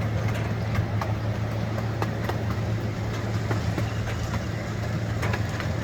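The ride train running steadily, a low steady hum with scattered light clicks and rattles.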